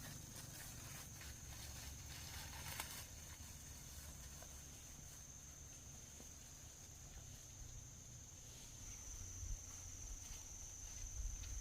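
Insects making one steady high-pitched buzz, a little louder near the end, over a low rumble with a few faint rustles.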